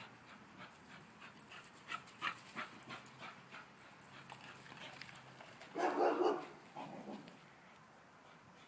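Dogs playing chase: quick patter of paws running, then a short, loud dog vocalisation about six seconds in, with a smaller one just after.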